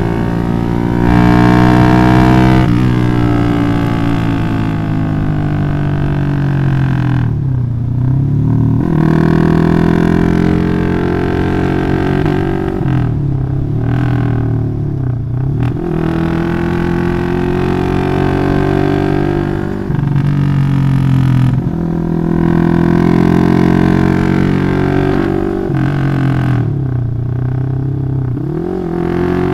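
Yamaha Jupiter MX motorcycle bored up to 180cc, its single-cylinder four-stroke engine loud through an aftermarket exhaust while being ridden. It revs up in each gear and drops in pitch at several gear changes.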